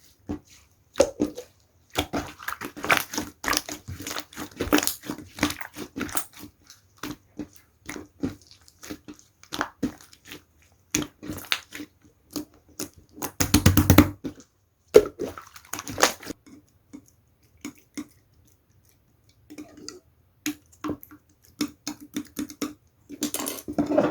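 Slime being squeezed and kneaded by hand, making a run of sticky clicks and small pops, with one louder, fuller squish about halfway through.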